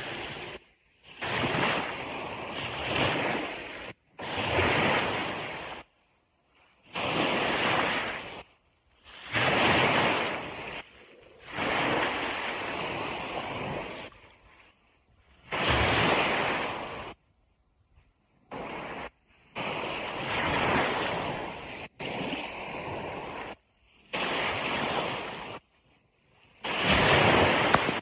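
Ocean surf washing on a beach, a steady rushing noise that comes in bursts of one to three seconds and cuts off abruptly into brief gaps of near silence about a dozen times.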